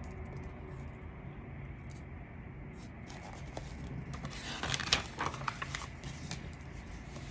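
Quiet room tone with a low steady hum, broken a little past the middle by a brief crackly rustle of paper, a page of the picture book being turned.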